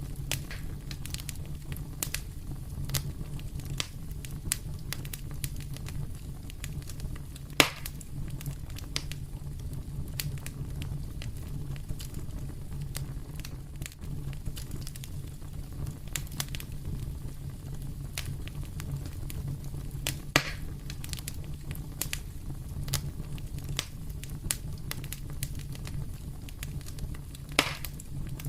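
Fire in a fireplace crackling over a steady low rumble, with frequent small clicks and three louder sharp pops, at about 8 s, about 20 s and near the end.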